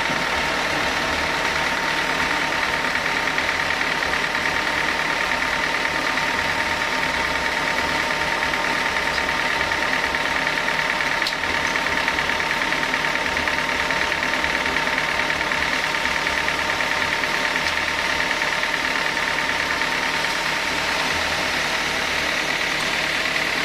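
Sawmill saw machinery running steadily, a loud even mechanical drone with a constant high hum.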